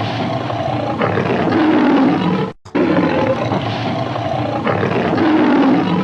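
Lioness roaring, a rough, deep sound played twice over with a brief break about two and a half seconds in.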